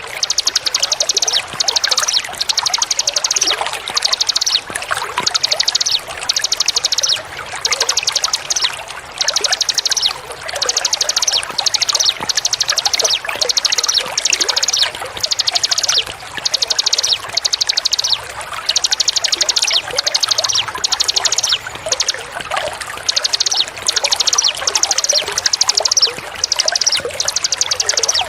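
A small songbird repeating short, high trills of very rapid notes, each under a second to a little over, roughly one a second, over a steady sound of running, pouring water.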